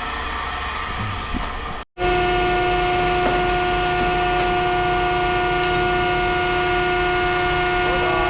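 Steady machine hum with a constant whine, cut by a brief dropout about two seconds in, after which the hum comes back louder and unchanging.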